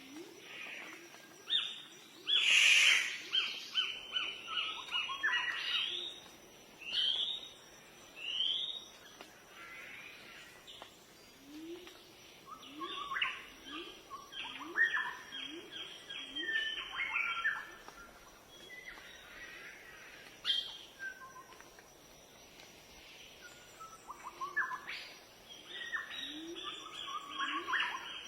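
Several songbirds calling and singing, with quick runs of chirps and trills, while a lower bird call repeats in short rising notes about twice a second in two spells.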